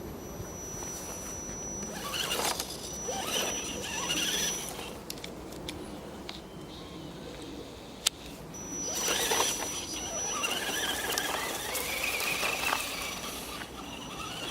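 An Axial 4x4 RC jeep's electric motor and gear drivetrain whining and squealing as it drives. A steady high whine cuts in and out, and a squeal rises and falls in pitch in the second half.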